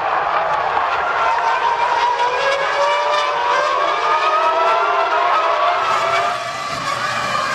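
Several Formula One V10 engines accelerating together, their pitches rising steadily and overlapping.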